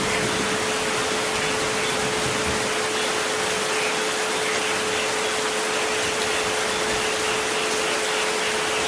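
Steady rain hiss with a continuous pure sine tone at 432 Hz underneath, and a fainter tone just above it at 528 Hz.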